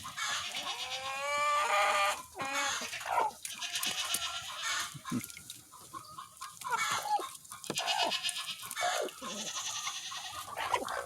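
Chickens clucking and calling in a coop, a string of short calls with one long, wavering call in the first two seconds.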